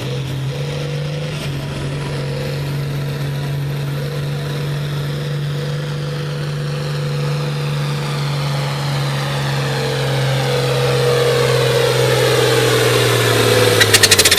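A modified farm pulling tractor's engine running hard at a steady pitch under full load as it pulls the sled down the track, growing louder as it nears. Near the end comes a quick rattle of pops, and the engine sound drops away.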